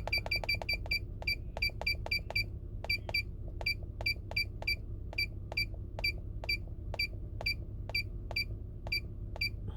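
Handheld automotive scan tool beeping at each keypress as its menus are scrolled: a long run of short, high, identical beeps, quick at first and then about two to three a second, over a steady low hum.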